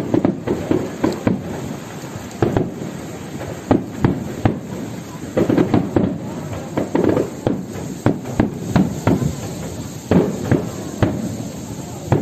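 Fireworks going off in a rapid, irregular series of sharp bangs.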